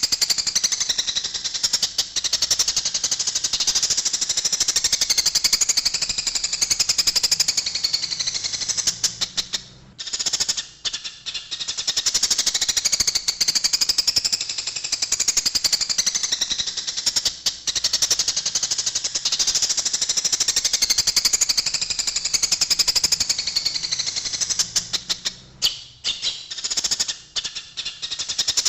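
Eurasian tree sparrows chattering in a fast, harsh, almost unbroken run of chirps: the agitated calls of sparrows fighting. It breaks off briefly about ten seconds in and comes in stuttering bursts near the end.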